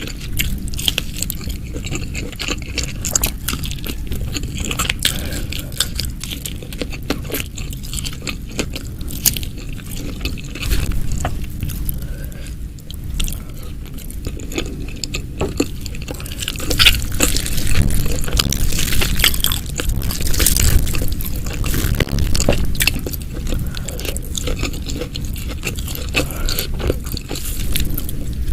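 Close-miked eating sounds: steady chewing and biting, with crunches and many small wet mouth clicks throughout.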